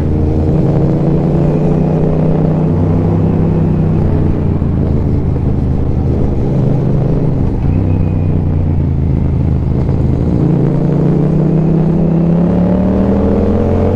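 Yamaha XSR700's parallel-twin engine running under way, heard from the bike. The pitch holds and shifts a few times, then rises steadily over the last few seconds as the bike accelerates.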